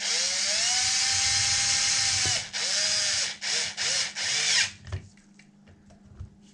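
Power drill driving beadlock-ring screws into a 1/5 scale RC wheel. One steady run of about two seconds starts with a rising whine and stops abruptly. Four short bursts follow as the screw is snugged down.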